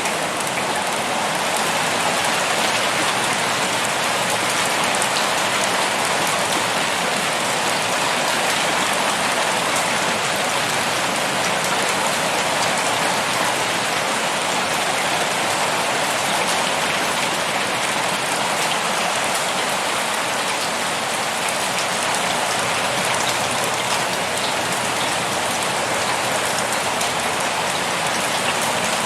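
Heavy rain pouring steadily, a dense even patter of drops on surfaces with no thunder or break.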